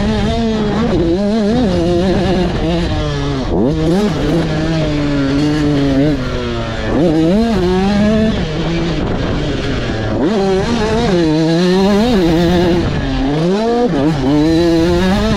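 85cc two-stroke supermini motocross bike ridden hard, the engine revving up and down continuously. Its note climbs and drops again and again, with a big rising sweep every few seconds as the throttle is worked through the corners and gears.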